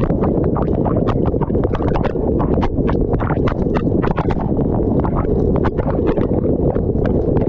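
Dishwasher wash cycle heard from inside the machine: a steady low rush of water jets from the spray arms, with rapid irregular knocks of water and spray striking the camera and nearby surfaces.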